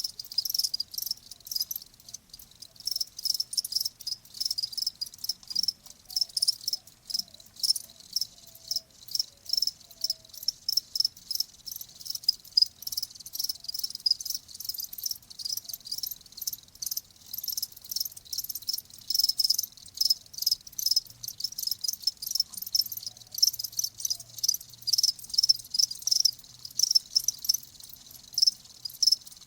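Crickets chirping: short, high-pitched chirps repeating a few times a second without a break.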